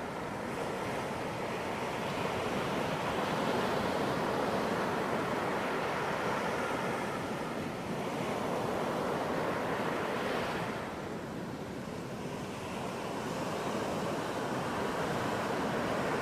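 Ocean surf breaking and washing on a beach: a steady rush that swells and eases, falling off briefly about two-thirds of the way through before building again.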